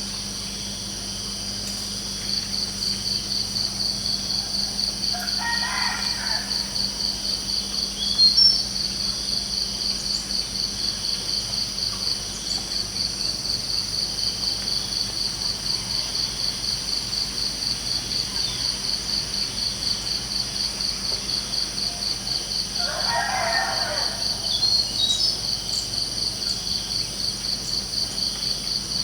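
Steady chorus of crickets chirping in a fast pulsing rhythm, with a rooster crowing twice, about six seconds in and again near the end, and a couple of brief high bird chirps.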